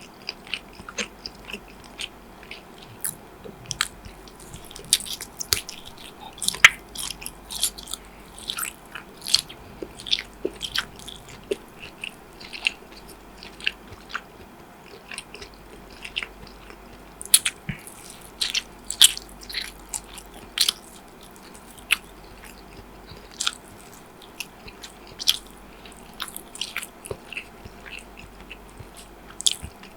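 Close-miked eating sounds: biting and chewing with many short, crisp clicks and crunches, bunched more densely in two stretches about a third and two thirds of the way through.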